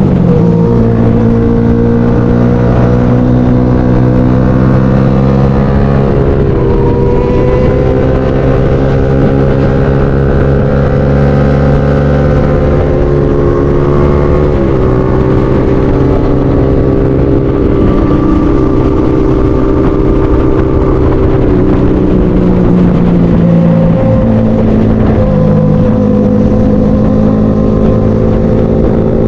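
Motorcycle engine running steadily at riding speed, its pitch gliding and stepping several times as the throttle and gears change.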